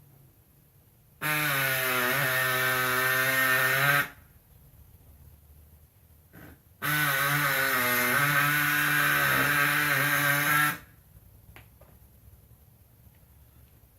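Pneumatic air body saw run in two bursts of about three and four seconds, a steady buzzing whine with a slight wobble in pitch, trimming the plastic lower bumper cover.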